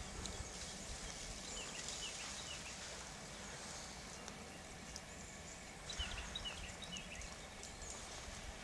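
Small birds calling: series of short, high, down-slurred chirps, one bout about a second and a half in and another about six seconds in, over faint scattered ticking.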